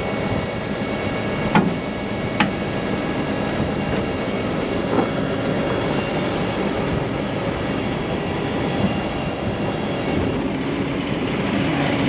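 Heavy truck diesel engine running steadily, with a few sharp knocks in the first five seconds.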